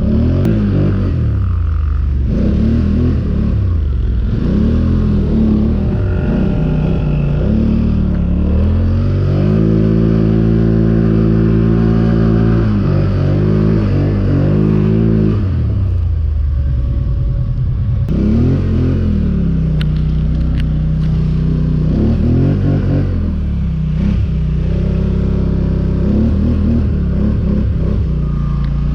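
ATV engine revving up and down while being ridden. It holds steady at high revs for several seconds about ten seconds in, eases off, then climbs again after about twenty seconds.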